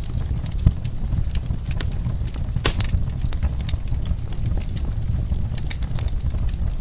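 Fireplace fire crackling: irregular sharp pops and snaps over a steady low rumble, with one louder snap about two and a half seconds in.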